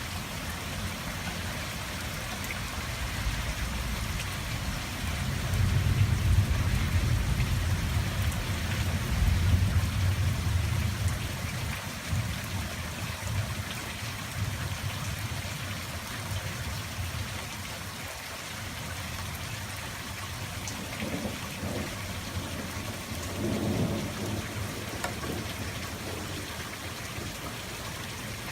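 Steady rain falling with a long roll of thunder. The thunder builds a few seconds in, is loudest for several seconds and dies away by about halfway, then a shorter, weaker rumble comes near the end.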